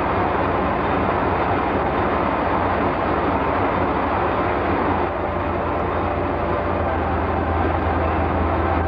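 Steady rushing hiss of a pantograph flame-cutting machine's torch cutting through thick steel plate, with a low hum underneath; the sound shifts slightly about five seconds in.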